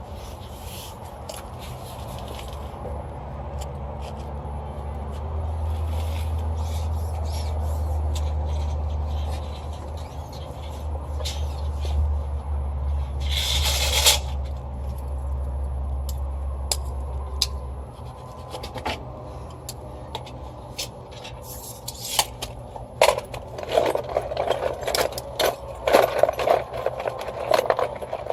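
Soft copper refrigerant tubing being handled and dragged, scraping and rubbing, with a low rumble through the middle and a brief louder scrape about halfway. Near the end come rapid metallic clicks and clinks.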